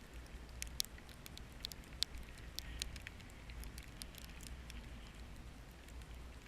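Wind-driven snow ticking against the camera in scattered, irregular sharp clicks, a few louder than the rest, over a steady low rumble.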